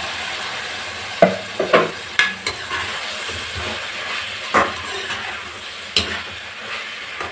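Pieces of goat intestine dropped into hot oil with shallots and tomatoes in a steel kadai, sizzling steadily as they are stirred with a perforated steel ladle. Several sharp clinks of the ladle against the pan are heard.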